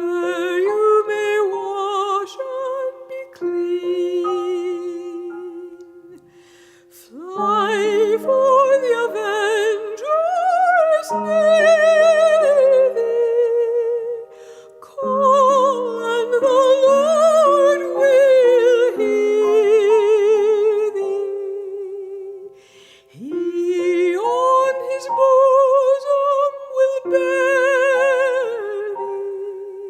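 Operatic soprano singing with wide vibrato over sustained accompaniment chords. The first few seconds are quieter; the voice comes in fully about seven seconds in, with a short break a little after twenty seconds.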